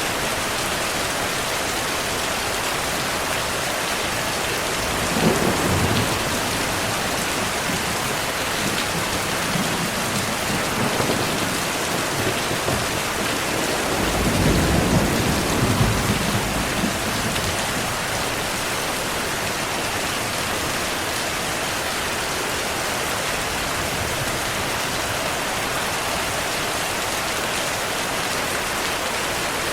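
Heavy rain falling steadily, with thunder: a rumble breaks about five seconds in, softer rumbles follow, and a longer, louder roll of thunder comes about halfway through.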